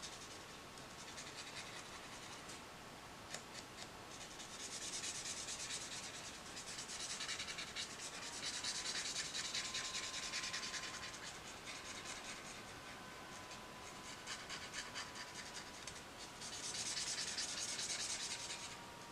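Tombow marker tip rubbing across colouring-book paper, in spells of quick back-and-forth strokes a few seconds long, as an area is filled in with colour.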